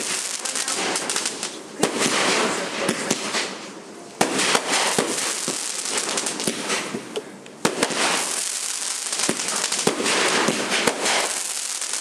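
Fireworks going off in a dense run of crackling and sharp pops, dying down twice and coming back with sudden loud bursts about four and seven and a half seconds in.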